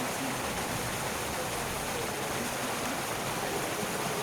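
Steady rushing noise like running water, with faint distant voices.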